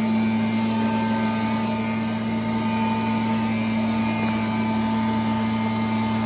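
Leaf blower engine running at a steady high speed, a constant hum over the rush of air, with no change in pitch.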